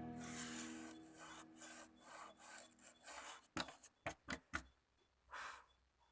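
Faint scraping and rubbing strokes, with a few sharp clicks about halfway through. A guitar chord dies away under them at the start.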